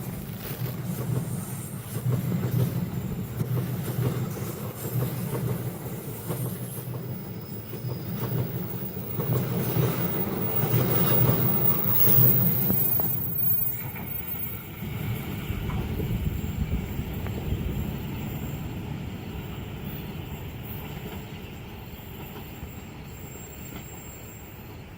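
A passenger train running fast past a curved level crossing: steady wheel-on-rail rumble and clatter, loudest about halfway through, then fading as the train moves away.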